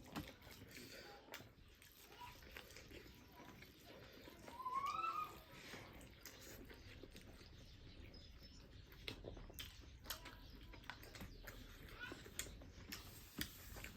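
Faint eating sounds: chewing with scattered small clicks and smacks. About five seconds in comes a brief rising vocal sound, like a short hum or exclamation.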